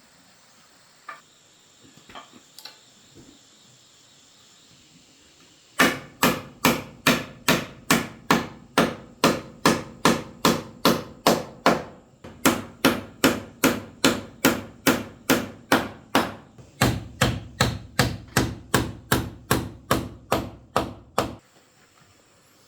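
Steady hammering: repeated hammer blows, about two to three a second, starting about six seconds in, with a short break around the middle.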